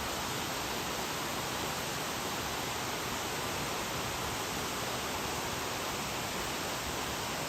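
Steady, even hiss of noise with no distinct events or tones.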